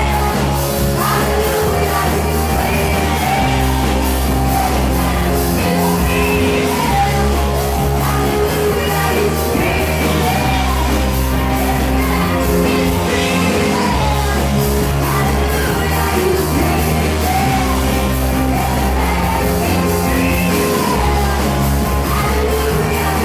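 Disco band playing live with a lead singer, a steady dance beat and a sustained bass line under the vocals, echoing in a large hall.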